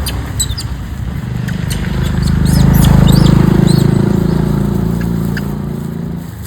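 A motor vehicle's engine passing close by, growing louder to a peak mid-way and then fading. Short high chirps sound over it, mostly in the first half.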